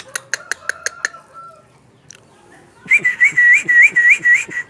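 Yellow-vented bulbul (trucukan) calling: a quick run of sharp clicks, then a fast series of short, rising whistled notes, about four a second, louder than the clicks.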